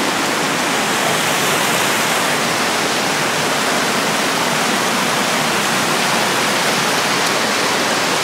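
Creek water rushing over rocks close by, a steady loud rush of running water.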